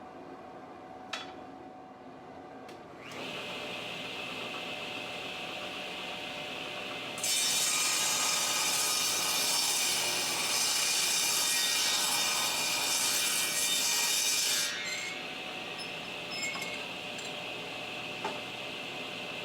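Sawmill power saw: a couple of clicks, then the motor starts about three seconds in and runs steadily. From about seven seconds in, a much louder cut through rough lumber lasts about eight seconds, and then the saw runs free again.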